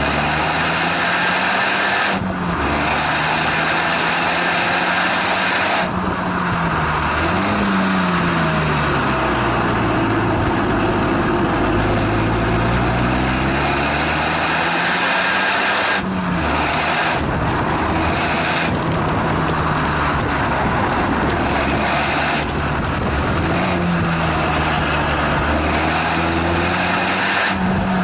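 Renault Megane GT220's turbocharged four-cylinder engine heard at the exhaust under hard driving on a circuit: the note climbs in pitch under acceleration, then falls away at gear changes and lifts, several times over.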